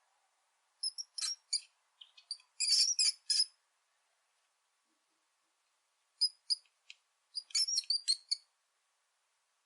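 Rat squeaking: short, high-pitched squeaks in quick clusters, with a pause of a few seconds in the middle.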